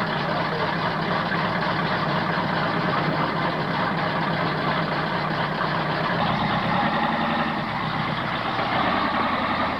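A mud truck's engine running steadily, its note shifting slightly about six to seven seconds in.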